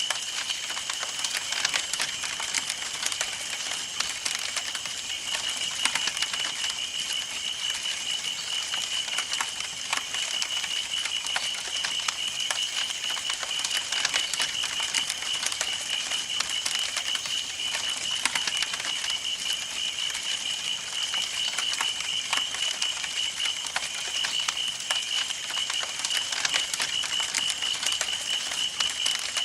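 Wood campfire burning, with dense irregular crackles and pops throughout. A steady, fast-pulsing high trill runs beneath it the whole time.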